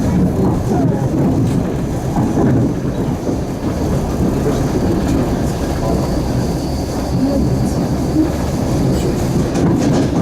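Passenger train running along the line, heard from aboard a carriage: a steady, loud rumble of wheels on the rails.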